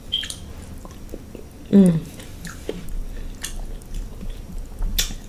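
Close-miked chewing and mouth sounds of someone eating seafood in sauce, with scattered small wet clicks and smacks. A short voiced hum comes about two seconds in.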